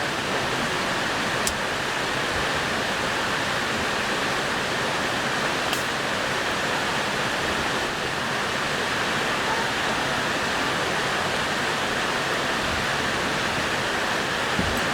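Mountain stream rushing steadily, a constant even rush of water.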